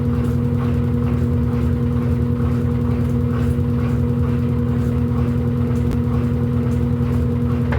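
Electrolux LED14 washing machine running with a steady motor hum, the pitch holding level throughout.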